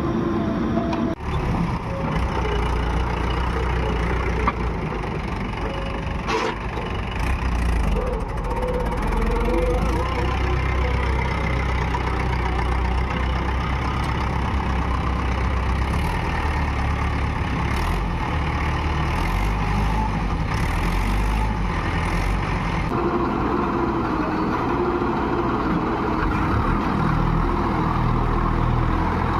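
Heavy diesel machinery engine running steadily, with a single sharp knock about four and a half seconds in.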